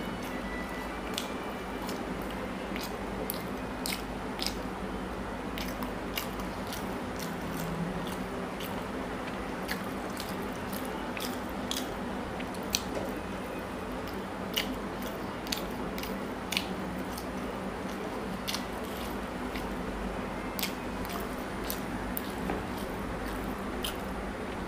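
Close-miked chewing of a soft chhana sweet, with frequent wet mouth clicks and smacks, irregular at about one or two a second, over a steady background hiss.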